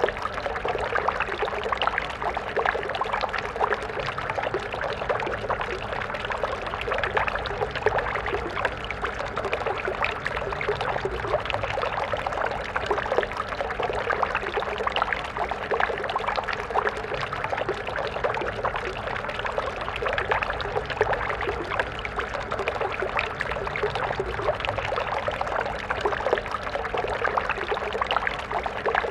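Small stream flowing steadily, water splashing and burbling over stones.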